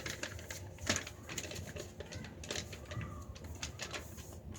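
A sheet of paper being handled and folded, with irregular crisp crinkles and rustles.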